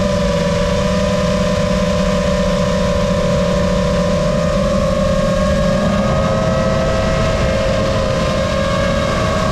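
Lumenier QAV-S 5-inch FPV quadcopter's brushless motors and propellers whining steadily in flight. Several tones drift slightly and rise a little past the middle, over a low rushing rumble.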